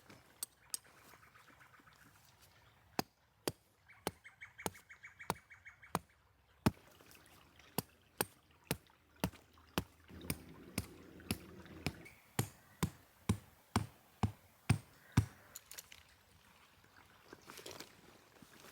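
A series of sharp knocks, at about two a second through the middle, with two short fast rattles in the first few seconds.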